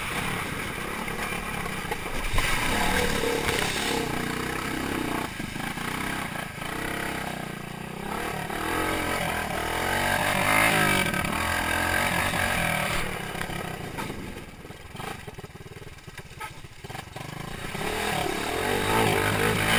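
Motorcycle engine running and revving, its pitch rising and falling as the throttle changes; it drops away about three-quarters through and comes back louder near the end.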